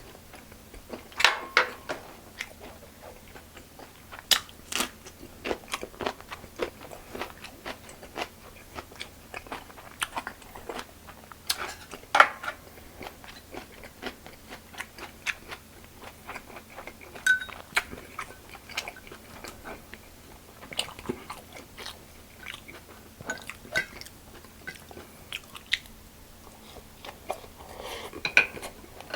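Close-miked chewing and crunching of food, with irregular sharp crunches and bites scattered throughout, the loudest about twelve seconds in.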